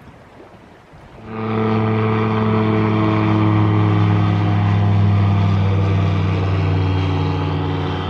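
An engine running steadily at a constant pitch, coming in suddenly about a second in after faint wind and lapping water.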